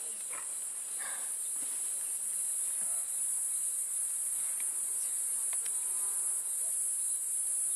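A chorus of insects shrilling steadily at a high pitch, without a break.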